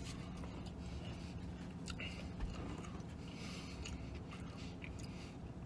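A man chewing a mouthful of McDonald's McRib sandwich, with faint mouth noises over a steady low hum.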